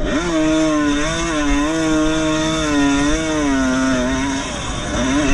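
Two-stroke 125 cc vintage motocross bike engine revving hard, its pitch wavering up and down with the throttle. It drops off about four seconds in and climbs again near the end.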